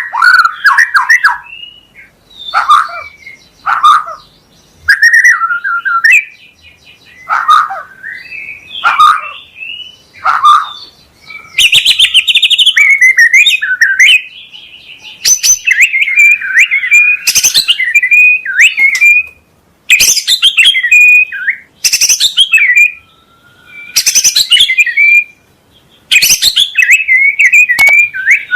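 White-rumped shama (murai batu) singing a string of varied phrases: whistled glides and sharp, harsh rapid notes, with short pauses between phrases.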